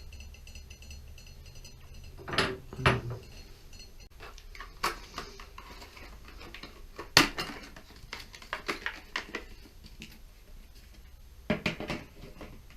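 Metal tools and valve parts clinking and knocking as they are handled at an open shower valve, in scattered groups of sharp clicks, the loudest a single knock about seven seconds in.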